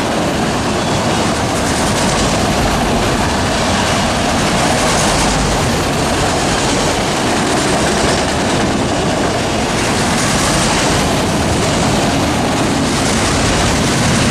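A freight train's cars rolling past on the rails, with a loud, steady rush of wheel and rail noise.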